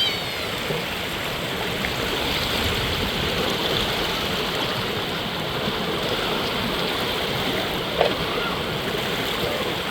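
Steady rush of running water from a stream, with a brief knock about eight seconds in.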